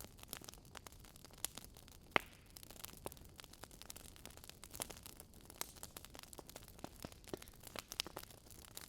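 Burning wood logs crackling, with irregular sharp pops and snaps over a soft hiss; one pop about two seconds in stands out as the loudest.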